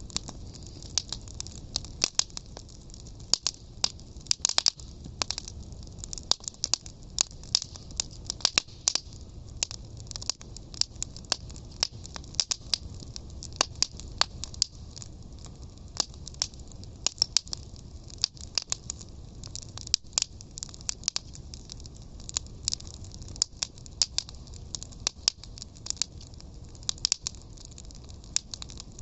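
Fire crackling: many irregular sharp pops and snaps, several a second, over a low steady rumble.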